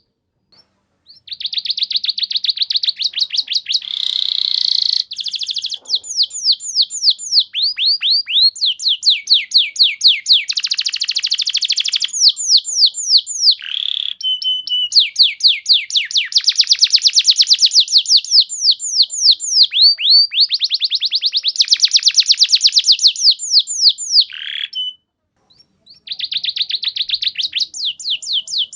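Domestic canary singing long, rapid trills: runs of quick falling whistled notes, several a second, strung into long phrases with short breaks about a second in and near the end.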